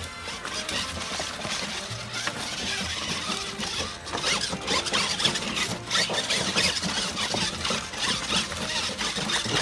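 Electric drive of an RC monster truck crawler whining through its gears as it climbs over rocks, the whine rising and falling with the throttle, with scraping and clicking as it goes.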